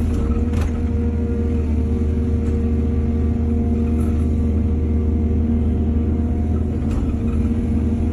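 Heavy diesel engine of earth-moving machinery running steadily, with a couple of faint knocks.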